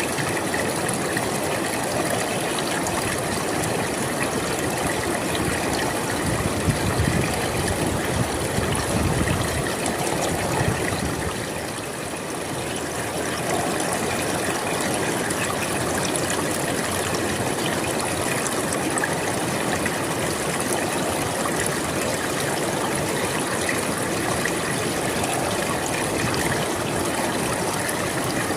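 River water flowing steadily, a continuous rushing and babbling with a few stronger low surges partway through.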